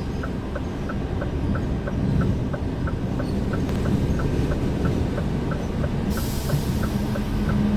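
Scania R410 truck's 13-litre six-cylinder diesel running under way, heard inside the cab as a steady low rumble with road noise. A small tick repeats evenly about two and a half times a second, like a turn indicator. About six seconds in a hiss starts and runs on, while the engine's hum grows stronger.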